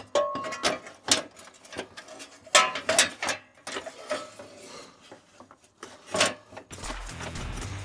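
Irregular clicks and knocks of parts being handled and fitted on a pickup's front bumper assembly. Background music with a steady beat comes in near the end.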